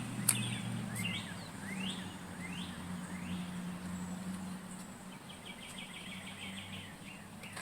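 Birds chirping: a few short rising and falling calls, then a quick trill about five seconds in, over a steady low hum.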